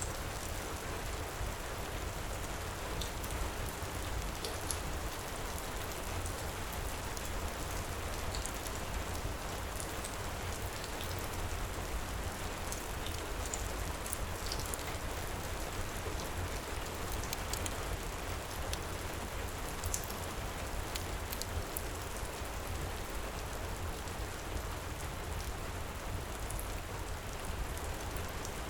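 Heavy rain falling steadily, an even hiss with scattered small high ticks of drops.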